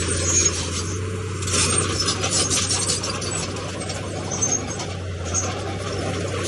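Crawler bulldozer running with a steady low diesel hum, its steel tracks and machinery clanking and rattling unevenly, busiest a couple of seconds in.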